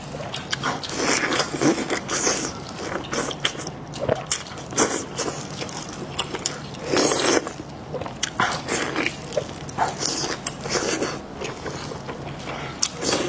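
Close-miked eating: a person biting and chewing food in irregular wet clicks and smacks, with a louder burst of chewing about seven seconds in.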